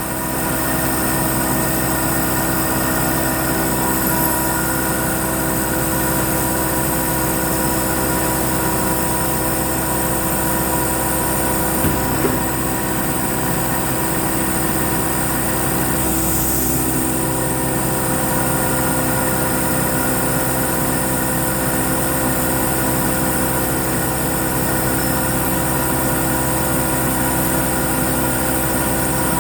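Hurco MB-1 CNC milling machine running while milling letters: a steady mechanical hum with several constant whining tones. There are a couple of faint clicks about twelve seconds in, and the tones shift slightly around seventeen seconds.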